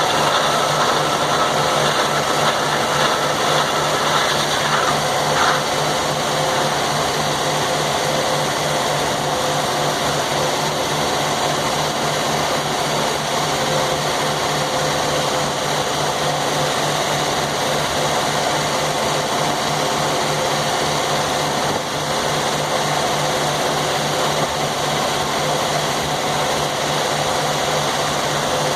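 Sawmill engine running steadily with an even low pulsing hum, and a faint high whine over it that stops about four and a half seconds in.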